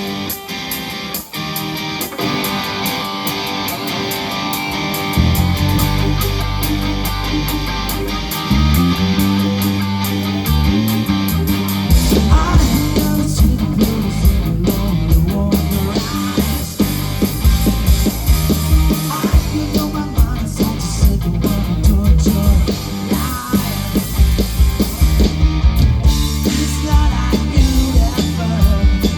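Instrumental passage of a rock song, led by guitar. A heavy bass comes in about five seconds in, and the full band with drums builds up from about twelve seconds.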